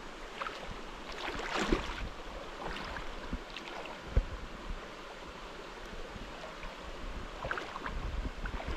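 Mountain stream rushing and splashing over rocks, a steady wash of water with irregular gurgles and splashes, the loudest about a second and a half in and again about four seconds in.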